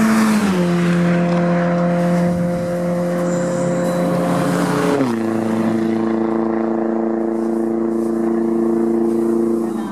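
A touring race car's engine running at a steady pitch. Its note steps down twice, about half a second in and again about five seconds in, then holds level each time.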